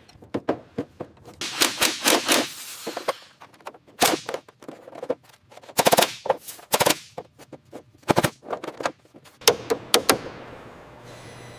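Bursts of sharp, rapid impacts, several strokes in quick succession, repeating every second or two. Near the end a steady low motor hum starts up.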